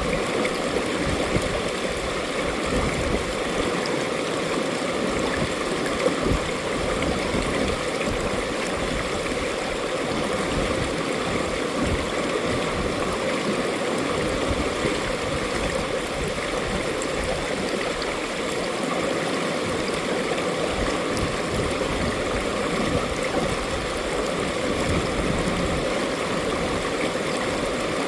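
Mountain-valley stream running over rocks: a steady rush of flowing water with gurgling.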